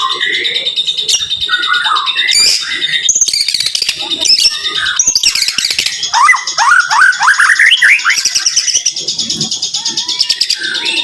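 White-rumped shama (murai batu) singing in rapid bursts: dense high whistles and chattering notes, with a quick run of about eight rising notes in the middle, over a steady high-pitched tone.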